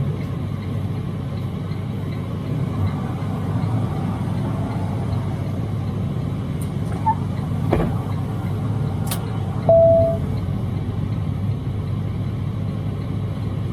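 Detroit DD13 diesel engine of a Freightliner semi running steadily, with two sharp clicks and one short steady beep about ten seconds in.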